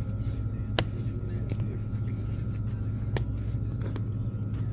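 Steady low machine-like hum with a faint steady high tone, broken by two sharp clicks, one about a second in and another about three seconds in.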